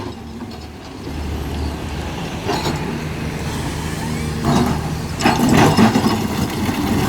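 Heavy diesel engine of a Shantui SE210 excavator running steadily, with louder rushing noise about four and a half seconds in and again a little after five seconds.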